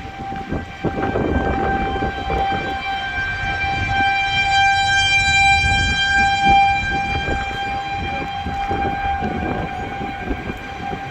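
Outdoor tornado warning siren sounding one long steady tone that swells a little louder near the middle and eases again, over an irregular low rumbling noise.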